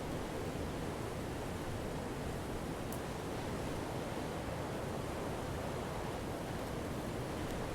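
Campfire burning: a steady low rushing hiss with a few faint, sparse crackles, the clearest about three seconds in.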